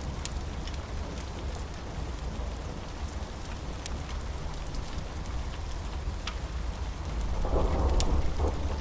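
Steady rain with scattered sharp crackles of a fireplace, and a low rumble of thunder rolling in near the end.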